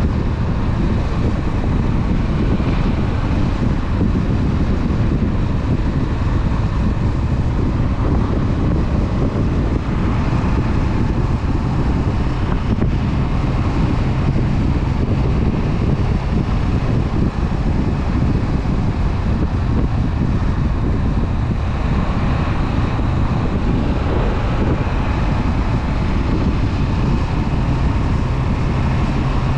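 Honda CB500F parallel-twin engine running steadily while riding, mixed with heavy wind noise on the microphone.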